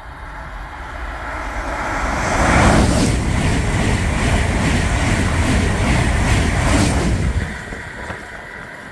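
A Deutsche Bahn ICE high-speed train passes at speed. Its rush builds from about a second in and is loudest through the middle, with a fast regular beating from the wheels. It drops away sharply near the end as the train is gone.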